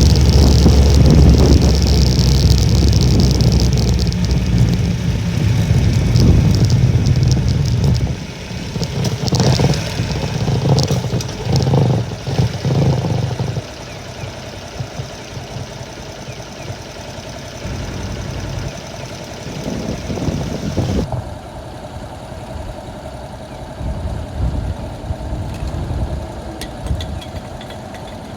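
Honda Little Cub's small single-cylinder engine running, with heavy wind buffeting on the microphone. The buffeting drops off sharply about eight seconds in, and the sound turns quieter and choppy, then steadier near the end.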